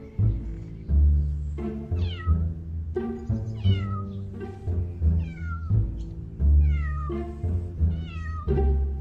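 A stray cat meowing over and over, short calls about once a second, each falling in pitch, with background music playing underneath.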